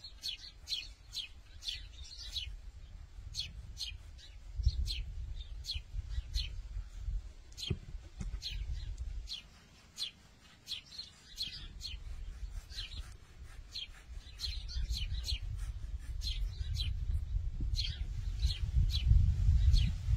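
Small birds chirping: many short, high chirps in quick succession. A low rumble underneath grows louder near the end.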